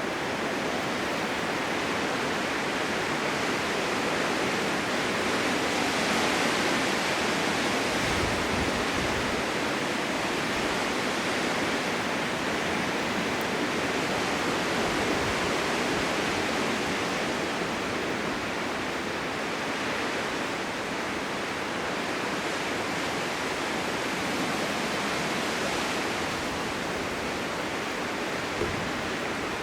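Blizzard wind blowing steadily, a dense rushing noise that swells and eases slowly.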